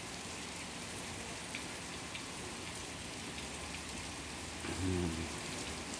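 Heavy rain falling on a wet paved yard: a steady, even hiss with faint scattered drop ticks. A brief low hum comes about five seconds in.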